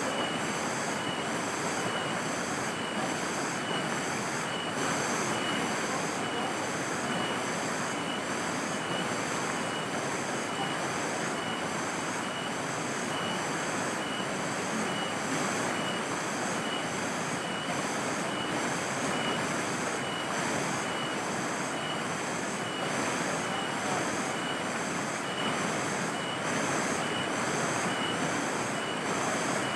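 Night insects, cicadas or crickets, chirping in an even pulse about twice a second, high-pitched, over a steady hiss.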